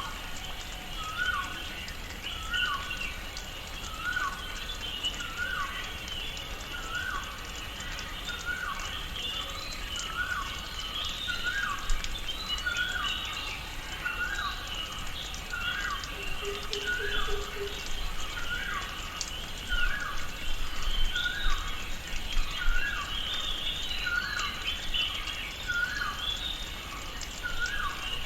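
Tropical rainforest ambience: one animal repeats a short falling call about once a second, over busy higher-pitched bird chirping and a steady background hiss. A brief lower call comes about two-thirds of the way through.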